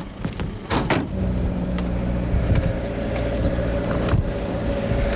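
A small 4x4's engine running steadily as it drives along a rough dirt track, with small rattles and clicks from the bumpy ride. There are two sharp knocks about a second in.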